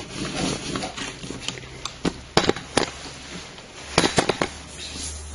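Handling noise from a camera being picked up and repositioned: a scatter of sharp clicks and knocks on its body, with a cluster of them about four seconds in and a low hum starting at the same time.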